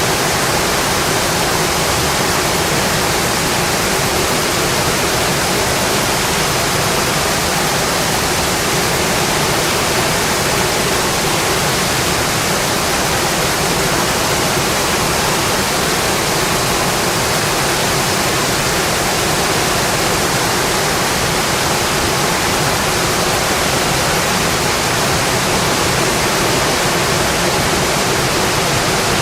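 Steady rainfall, a constant even hiss that does not change, with no single drops, thunder or other events standing out.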